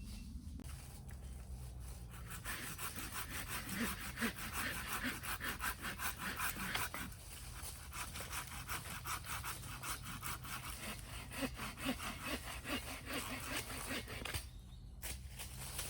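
A hand saw cutting wood in quick, regular strokes, starting a couple of seconds in, pausing briefly about halfway and stopping about a second before the end.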